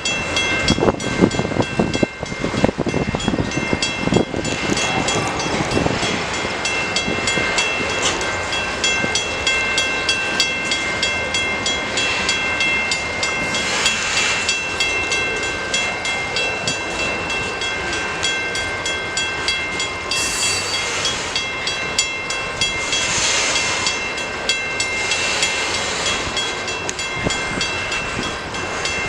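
Freight cars of a CN manifest train rolling past at slow speed just after pulling out of a siding, wheels clattering and knocking over the rails, heaviest in the first few seconds. Several steady high ringing tones run underneath throughout, with a few brief hissing swells later on.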